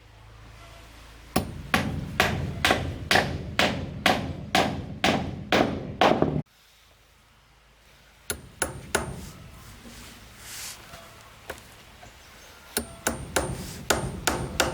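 Hammering: a steady run of about three hammer blows a second that cuts off abruptly. A few scattered blows follow, then another quick run of strikes near the end with a faint metallic ring.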